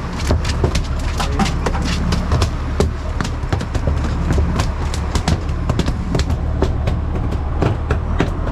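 Rapid, irregular knocking and slapping of a freshly landed mahi-mahi thrashing on the boat deck, over the steady drone of the boat's engine.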